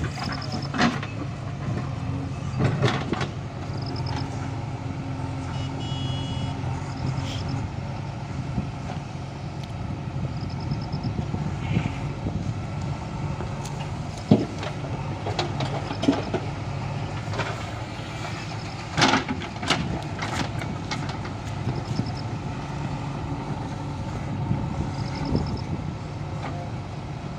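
Diesel engines of a backhoe loader and tractor running steadily, with a few sharp knocks and clatters about halfway through and near two-thirds in, and short high beeps repeating every few seconds.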